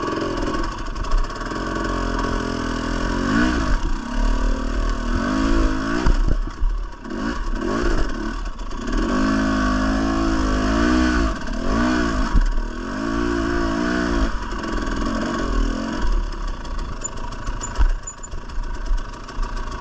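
Two-stroke dirt bike engine revved in a series of rising and falling bursts, the throttle worked again and again while the bike is wedged on the obstacle with its rear tire hung up. The revving settles into steadier running in the last few seconds.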